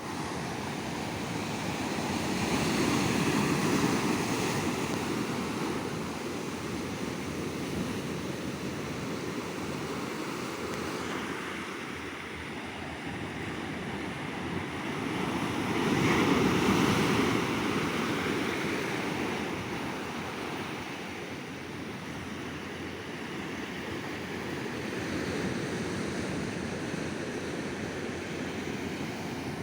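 Ocean waves breaking on a beach and washing up the shore, a steady surf with two larger waves swelling up, one a few seconds in and one just past the middle.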